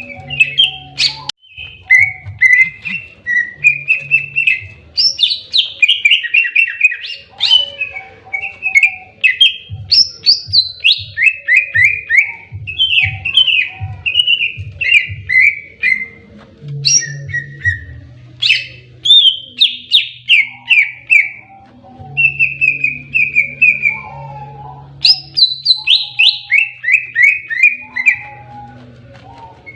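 Greater green leafbird (cucak ijo) singing its aggressive 'fighting' song: loud, fast runs of sweet chirps and downward-slurred notes with short pauses between phrases, over a low hum.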